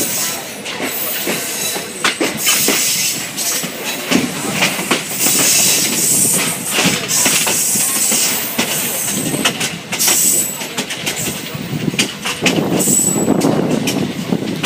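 Commuter train coach running slowly over points and rail joints, heard from an open window: a steady rumble with irregular clacks from the wheels and brief high wheel squeals as it takes the curving track.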